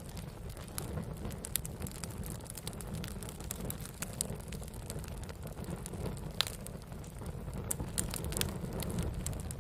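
Wood campfire burning: a steady low rumble of flames with frequent sharp crackles and pops, one louder pop about six seconds in.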